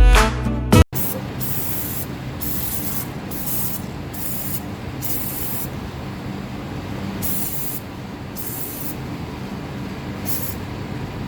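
Aerosol can of Armor All Tire Foam sprayed in about a dozen short hissing bursts, each under a second, over the engine bay. Music plays for the first second, then stops.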